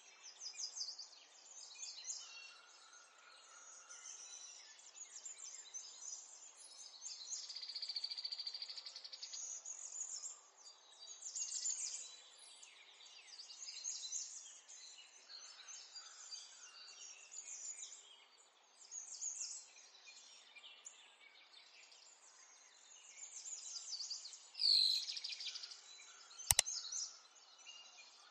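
Small birds chirping and twittering, with a brief louder burst about 25 seconds in and a single sharp click shortly after.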